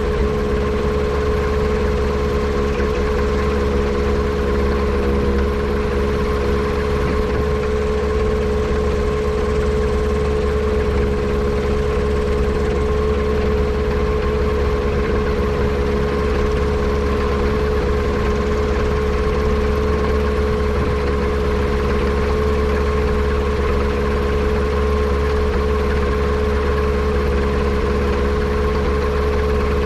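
Yamaha Apex four-cylinder four-stroke engine on a Kitfox airplane running steadily at one speed. The engine has a misfire that the owner suspects comes from a vacuum leak.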